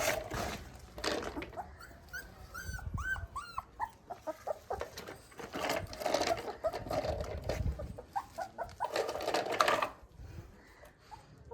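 A puppy whimpering in a quick run of short, high, rising-and-falling whines about two to three seconds in, with scattered rustling and knocks from handling and play around it.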